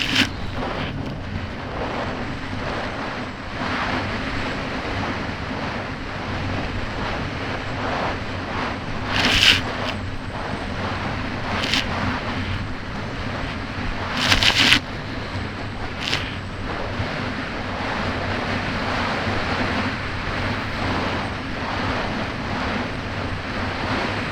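Kawasaki Ultra 300X jet ski's supercharged four-cylinder engine running steadily under way over choppy water, with wind rushing over the microphone. Several sharp splashes break through as the hull hits the chop, the loudest about halfway through.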